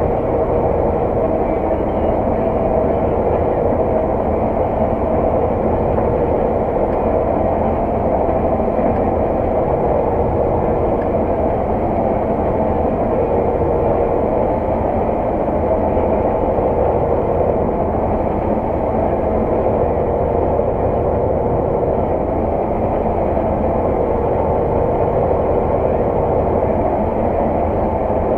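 Heavy farm machinery's diesel engine running steadily under load, a continuous even drone with a steady hum in it and no change in pitch.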